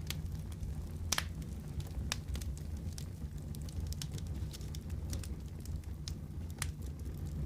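Wood fire crackling in a fireplace: a steady low rumble of the flames with scattered sharp pops, the loudest about a second in.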